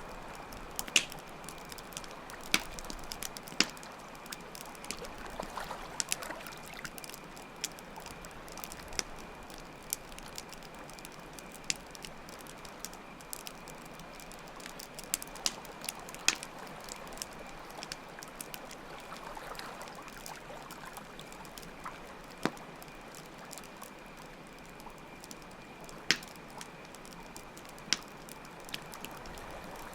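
Campfire crackling with irregular sharp pops over the steady rush of flowing water, and a continuous high cricket trill.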